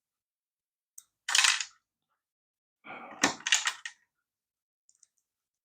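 Hard plastic parts of a toy RC car being handled during disassembly: a single click, a short scrape just after it, and about two seconds later a cluster of clicks and rattles.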